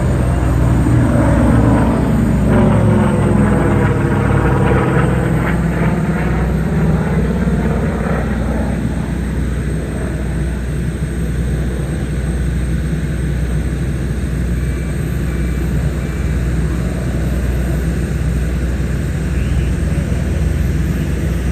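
Propeller warbird's piston engine flying past, its pitch dropping as it goes by in the first nine seconds or so, then settling into a steadier, duller drone.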